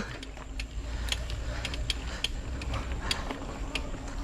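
Mountain bike clicking and ticking mechanically while being ridden on a dirt trail: a few sharp clicks a second over a steady low rumble.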